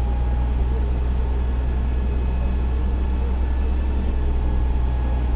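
Fire engine's engine running with a steady low rumble, heard from inside the cab.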